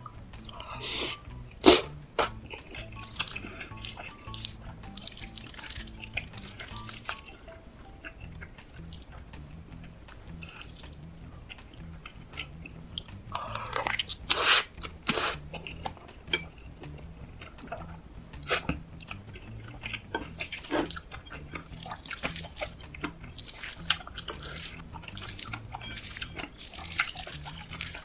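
Close-miked eating sounds: a spoon clicking against the dish at irregular moments, and moist chewing of kimchi fried rice with cheese.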